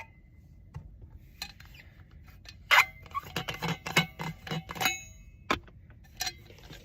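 Thermos and cup being handled: a run of sharp clicks and small clinks with a slight ring, mostly in the middle of the stretch, as the flask is opened for refilling the cup with hot water.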